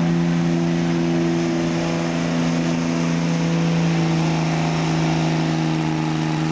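Diesel truck engine held at high, steady revs under load during a sled pull.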